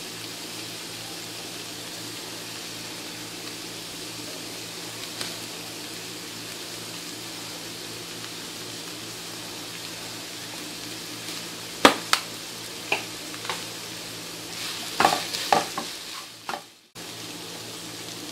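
Chopped chicken and capsicum filling sizzling steadily in a nonstick frying pan. A few sharp taps come about twelve seconds in, then a wooden spatula scrapes and stirs through the mixture near the end.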